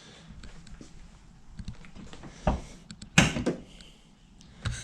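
Quiet clicks and two sharp knocks, a smaller one about two and a half seconds in and the louder one about half a second later.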